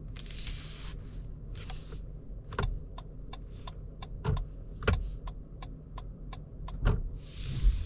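Irregular sharp clicks and taps, about a dozen, with short bursts of hiss near the start, about two seconds in and near the end, over a low steady hum.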